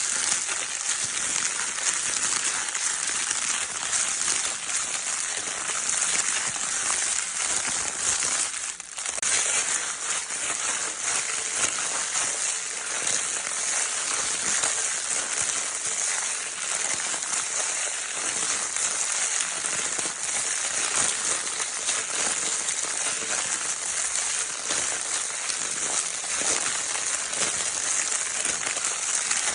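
Crinkle paper of a baby's crinkle toy being crumpled continuously, a dense, steady crackling rustle with a brief lull about nine seconds in.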